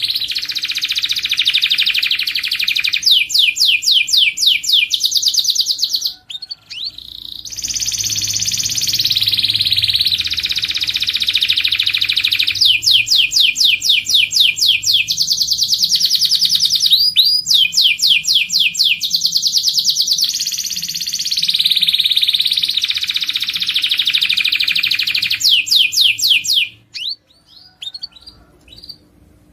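Domestic canary singing: a long song of fast trills, each kind of note repeated rapidly for a second or two before switching to another. There is a brief pause about six seconds in, and the song breaks off into a few short chirps near the end.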